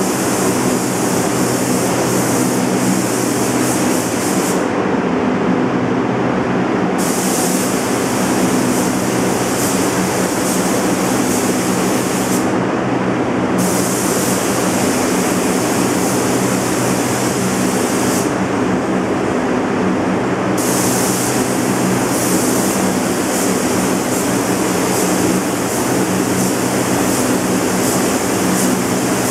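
Air-handling fans of a large heated downdraft truck paint booth running: a steady loud rush of moving air over a steady low hum. A higher hiss on top cuts out three times, for a couple of seconds each.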